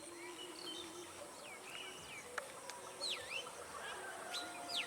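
Birds chirping and calling, with quick whistled notes that swoop down and back up, the loudest about three seconds in and again near the end. A single sharp click about two and a half seconds in.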